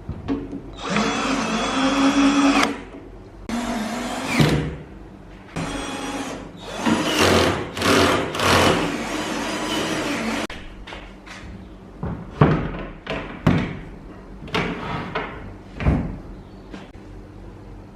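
A small electric power tool running in repeated bursts, stopping and starting: longer runs of a few seconds, then shorter ones in the second half.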